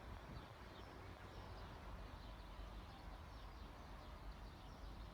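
Faint outdoor background noise: a steady low rumble with many faint, short, high chirps repeating throughout.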